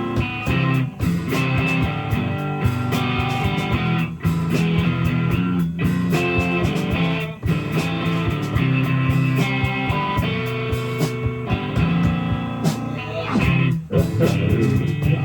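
Live rock band playing an instrumental passage of a song: electric guitar over a steady bass line, with drum hits.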